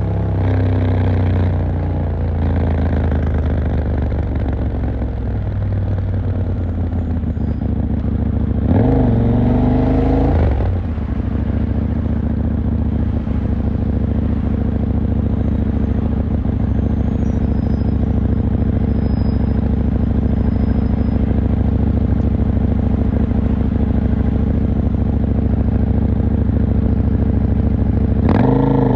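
KTM 890 Duke R's parallel-twin engine settling to a steady idle, with one short throttle blip that rises and falls about nine seconds in, and revving up again at the very end.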